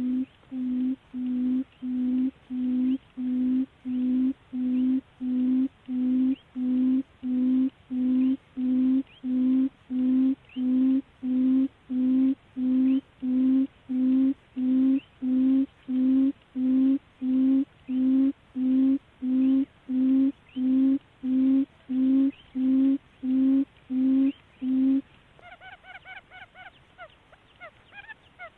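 Buttonquail call used as a decoy call: a low, hooting note repeated evenly a little over once a second. It stops near the end, and fainter, quicker high chirps follow.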